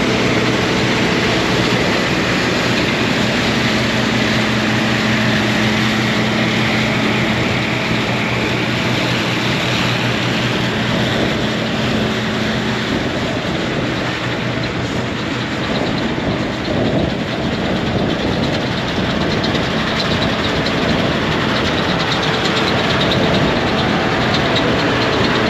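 John Deere 4400 combine running steadily while harvesting soybeans: a constant engine hum with the machine's threshing noise, easing off slightly for a few seconds midway.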